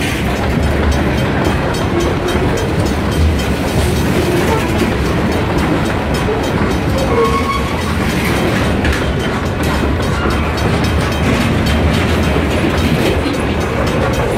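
Freight train boxcars rolling past close by: a steady, loud clatter of steel wheels on the rails.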